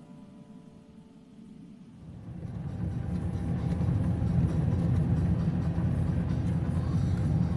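A low, steady rumble that comes up about two seconds in and holds, like vehicle or road noise.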